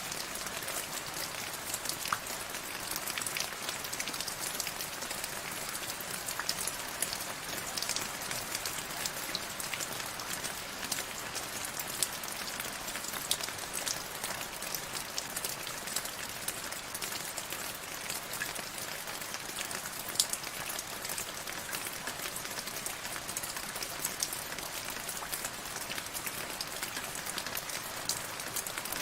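Steady rainfall: an even hiss of rain with many individual drops pattering and ticking on a surface.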